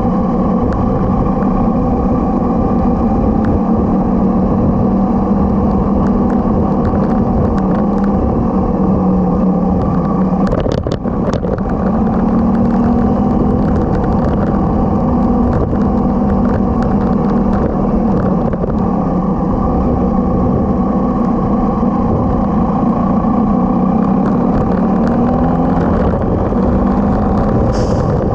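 Motorcycle engine running steadily under way, with rumbling wind and road noise; the engine sound briefly drops about eleven seconds in before picking up again.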